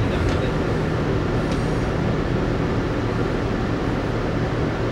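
Cabin noise of an airport people-mover train running along an elevated guideway: a steady rumble with a low, even hum.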